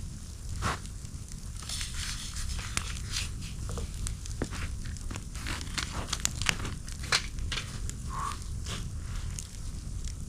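Campfire crackling with irregular sharp snaps over a low steady rumble, mixed with crinkling and rustling.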